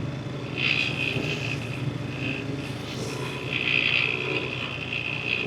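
Yamaha NMAX V3 scooter's single-cylinder engine running steadily on the move, with road and wind noise. A higher hiss swells and fades several times.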